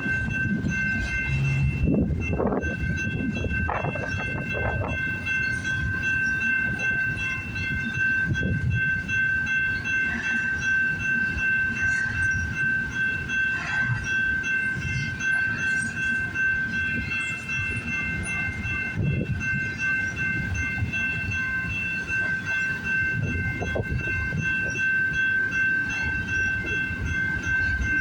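Long intermodal freight train's cars rolling past at close range: a steady low rumble with irregular wheel clatter and knocks, over which runs a steady high whine.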